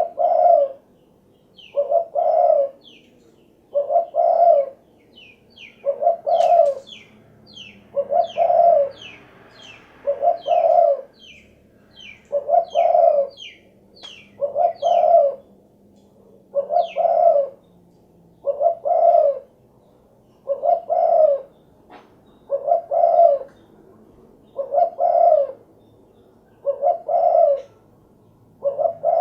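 Spotted dove (derkuku) singing its cooing 'cukurukuk-kuk-geruk' song, one phrase about every two seconds. Higher, thin chirps sound above many of the phrases.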